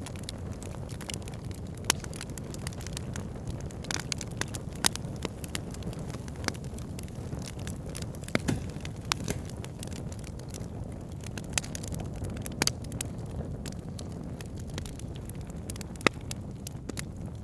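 Wood fire burning in a fireplace: a steady low rumble of flames with frequent small crackles and occasional sharper pops from the burning logs.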